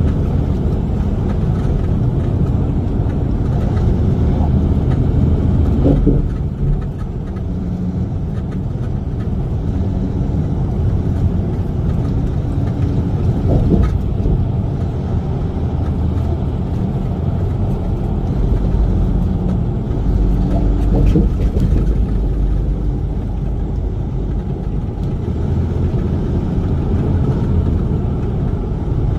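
Semi truck's diesel engine and road noise while driving, a steady low drone.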